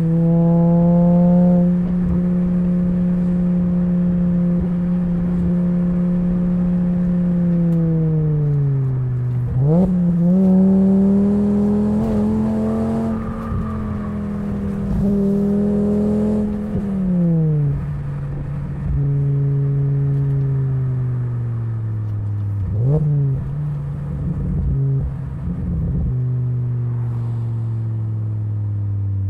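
Exhaust note of a 2004 Volvo V70 2.4's naturally aspirated inline five-cylinder through a Borla XR1 muffler while driving. The engine pitch holds steady, dips and then jumps back up about nine seconds in, and holds higher. It drops sharply a little past halfway, gives a brief rev blip later on, and then sinks slowly near the end.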